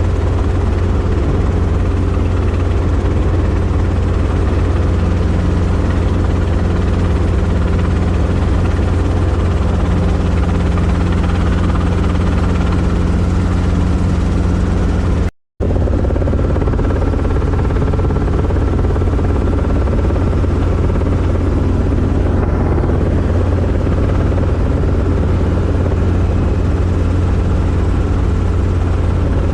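Robinson R22 helicopter in flight: steady drone of the rotor and four-cylinder piston engine. The sound cuts out completely for a split second about halfway through.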